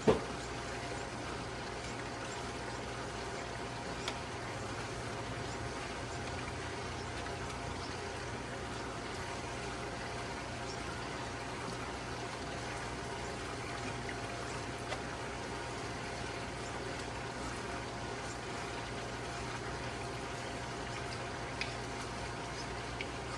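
Water running steadily over a low, even hum, with a sharp knock right at the start and a few faint clicks further on.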